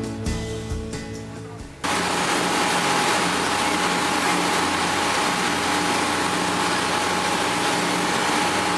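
Background music fading out, then a sudden cut to a cruise boat's engine running steadily under a loud, even rushing noise.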